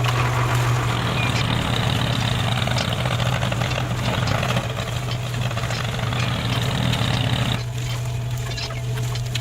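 A steady, engine-like running drone with a low hum underneath, growing louder and noisier about a second in and easing back near the end.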